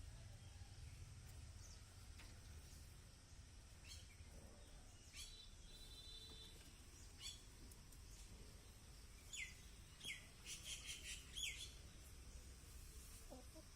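Faint, scattered short bird chirps that drop in pitch, with a quick cluster of several about two-thirds through, over a quiet background.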